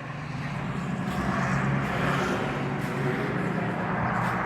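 Steady machine running with a low drone and a rushing noise, growing louder over the first second or two and then holding.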